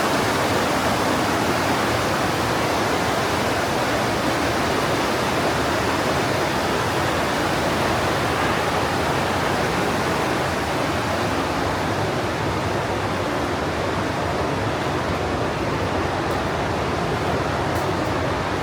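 The Partnach, a glacier-fed mountain stream, rushing through its gorge: a loud, steady rush of water.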